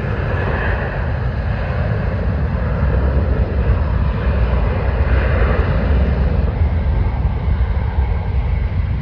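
Airbus A319 jet engines at takeoff thrust: a steady, loud deep rumble with a hiss above it that thins out gradually over the later seconds.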